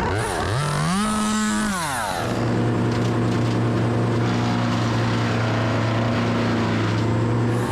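Chainsaw revved once, rising to full throttle for about a second and dropping back, over a steady engine drone that runs on to the end.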